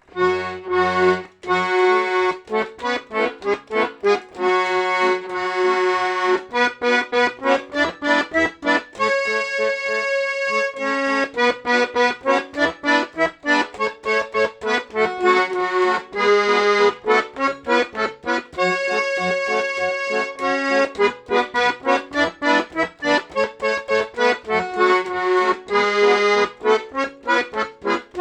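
Garmon, a Russian button accordion, playing a lively tune: a melody in quick, evenly paced notes over low bass-and-chord accompaniment.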